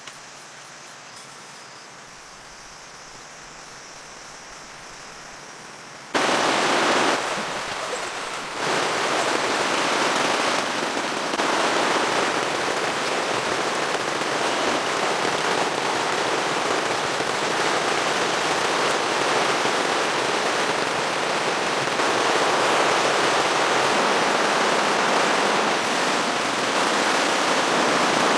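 Rain falling: a faint steady hiss for about six seconds, then, starting suddenly, much louder heavy rain pattering densely on a surface.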